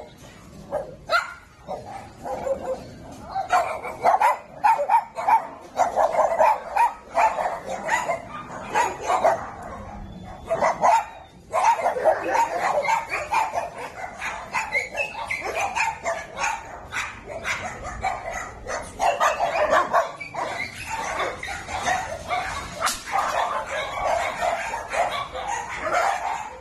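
Many dogs barking together, with overlapping barks following one another almost continuously and a brief lull about eleven seconds in.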